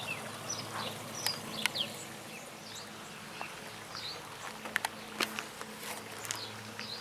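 Garden ambience: small birds chirping in short, pitch-sliding calls over a steady low hum, with scattered sharp clicks.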